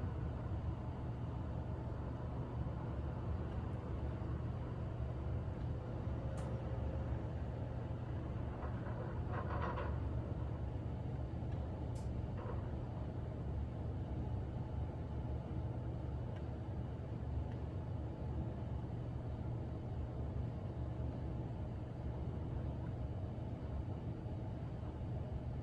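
Steady low rumble at an even level, with two faint sharp clicks and a short scraping or knocking sound near the middle.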